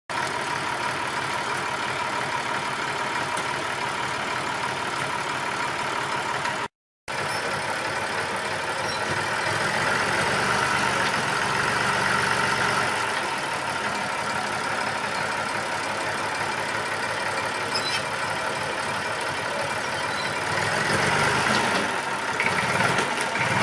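Truck engine running steadily under load, cutting out completely for a moment about seven seconds in, then growing a little louder again.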